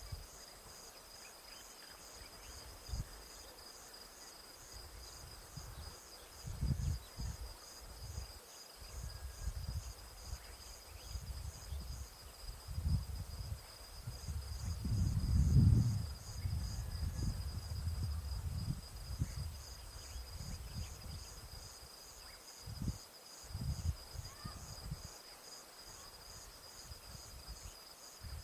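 An insect trilling steadily at a high pitch, with bouts of low rumble on the microphone that are loudest about halfway through.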